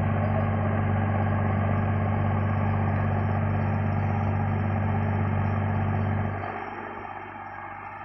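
Sonalika DI 35 tractor's diesel engine running at a steady speed, then dropping away suddenly about six seconds in, leaving a quieter hiss.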